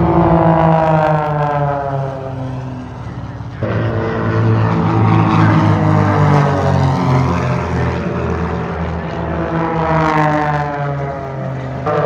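Propeller aircraft engine droning as it flies past, its pitch falling as it goes by; this happens twice, with an abrupt jump in the sound about a third of the way in.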